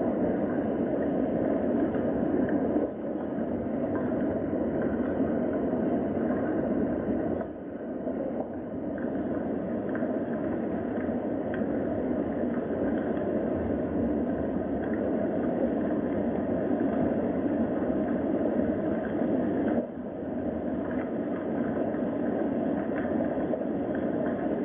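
Steady rain, a dense even hiss with faint scattered drip-like ticks, dipping briefly in loudness three times.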